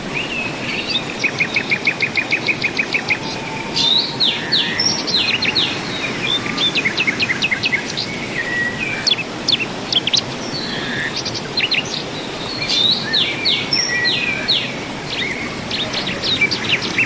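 Several birds chirping and calling: sharp short notes and quick runs of repeated notes, some about eight a second, over a steady rushing background noise.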